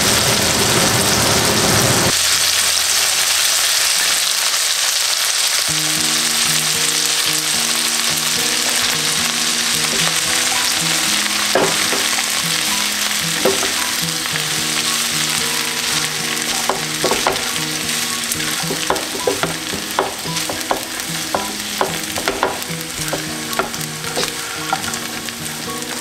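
Vegetables sizzling in hot oil in a non-stick wok, then a spatula stirring rice through the pan, with sharp scrapes and taps on the pan from about ten seconds in that come more often towards the end. Soft background music with a simple melody comes in about six seconds in.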